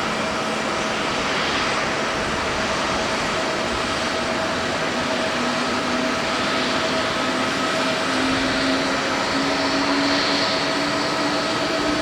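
Jet airliner engines running with a steady, broad noise and a low tone that slowly rises in pitch over the second half.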